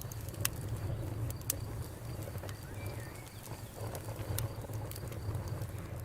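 Campfire burning, with sharp pops and crackles from the burning wood every second or so over a steady low rumble.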